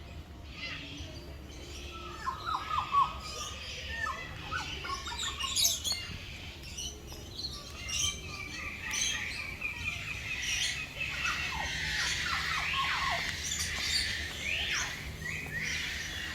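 Several aviary birds chirping and calling at once: short chirps, quick downward-sweeping notes, and a long trilled run in the middle.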